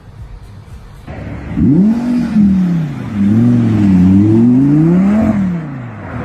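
Sports car engine revving hard. Its pitch climbs sharply about a second and a half in, then rises and falls several times before dropping off near the end.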